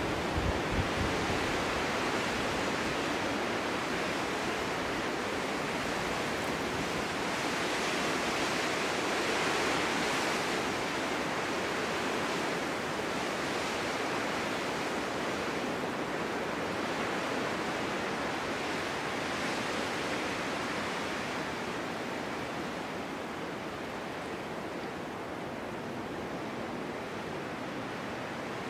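Snowstorm wind blowing in a steady rush that swells about ten seconds in and eases off after about twenty seconds.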